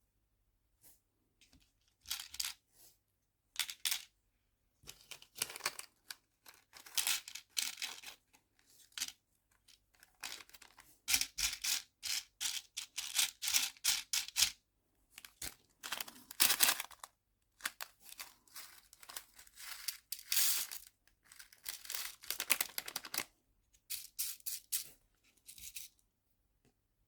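Nail-art charms and their plastic packaging being handled and sorted: irregular spurts of rustling, crinkling and light clicking.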